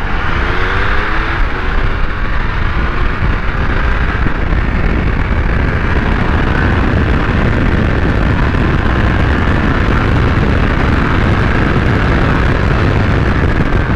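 Triumph Speed Triple 1200 RS's inline three-cylinder engine rising in pitch as the bike accelerates over the first two seconds, then a steady loud rush of wind and engine noise at speed.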